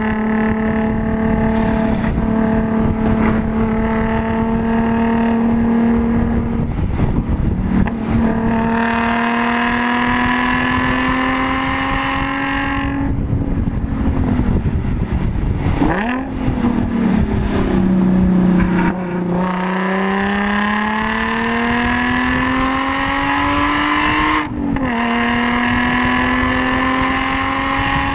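Supercharged V6 of an Audi S4, heard from inside the cabin, running hard through the gears at track speed. Its pitch climbs slowly under load and drops at each gear change, with a lift and a quick throttle blip on a downshift about halfway through, over steady tyre and wind noise.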